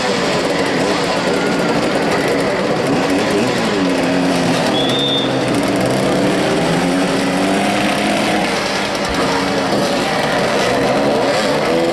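Several motoball motorcycles' engines revving up and down, their pitches rising, falling and overlapping. A short high whistle note comes about five seconds in.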